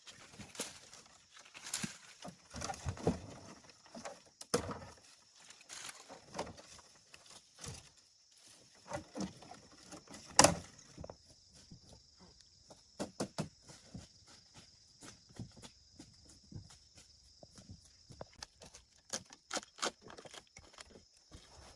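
Irregular clicks and knocks, with one sharp, loud knock about ten seconds in; after it a steady high hiss sits under the clicks.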